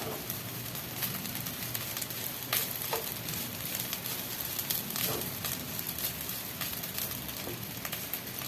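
Rice frying in a hot pan for fried rice: a steady sizzle with scattered crackles and a few sharper clicks.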